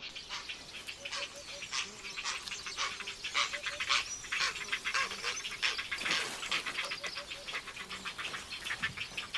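Grey heron chicks begging for food in the nest: a dense, rapid chattering of short ticking calls from several chicks, with short repeated lower notes in small groups mixed in.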